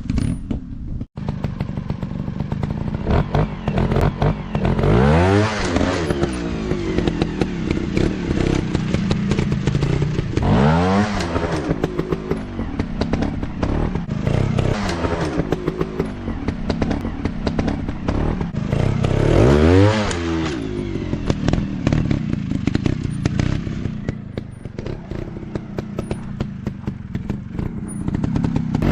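Dirt bike engine running and being revved up and back down several times, about four strong rises and falls, with a steady spatter of clicks over it.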